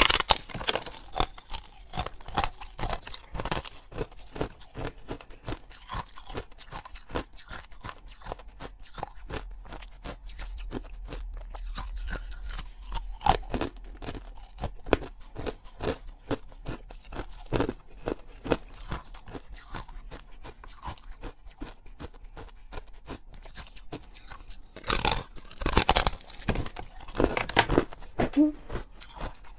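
Close-miked crunching and chewing as a person bites into and eats a hard treat, with dense crackling throughout and a few louder bites near the end.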